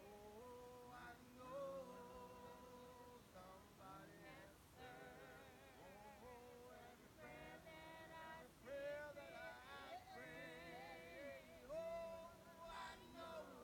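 Faint singing of a gospel hymn: voices holding long, wavering notes.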